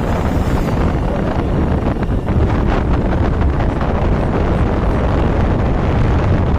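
Heavy wind buffeting the microphone of a moving motorcycle, a steady loud rush with the bike's engine and road noise underneath.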